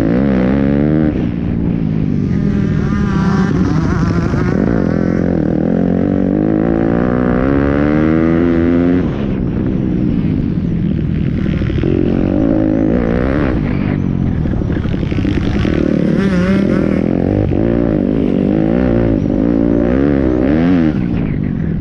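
Pit bike engines revving up and down again and again, several bikes at once, with the pitch rising and falling through gear changes and throttle.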